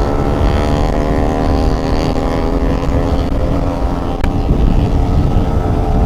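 Motorcycle engine running at a steady pace while riding, with wind rumbling on the microphone. A single sharp click about four seconds in.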